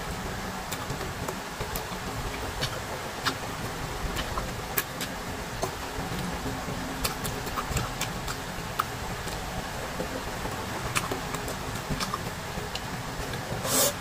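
Close-up eating sounds of crisp green mango: irregular sharp crunches and clicks of chewing, with a louder crunch near the end as a fresh slice is bitten, over a steady background hiss.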